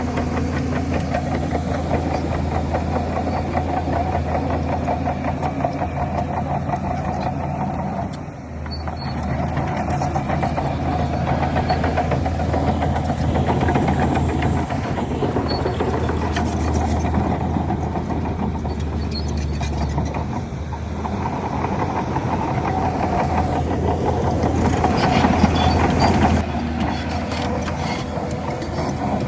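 Shantui DH17C3 bulldozer's diesel engine running steadily, dipping briefly about eight seconds in. It works harder, louder and noisier, shortly before the end, then eases off.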